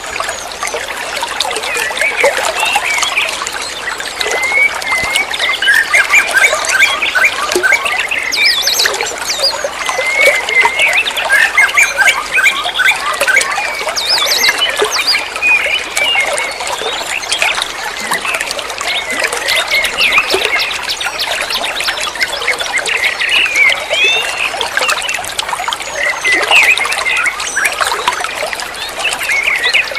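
Water trickling and splashing steadily, with many small birds chirping and calling over it in quick, overlapping bursts.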